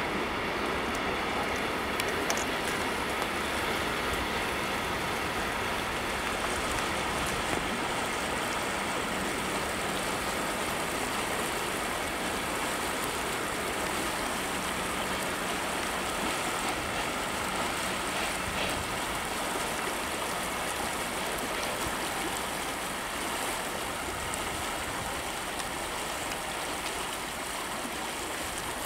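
Steady rushing noise of an intermodal freight train's loaded container wagons rolling past on the rails, easing slightly toward the end.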